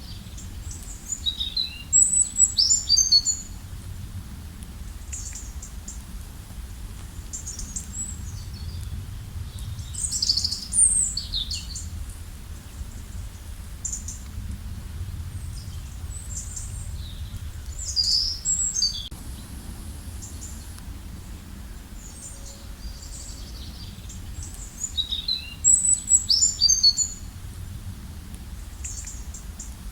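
Songbirds singing short, high-pitched chirping phrases every several seconds, over a steady low rush of a forest stream.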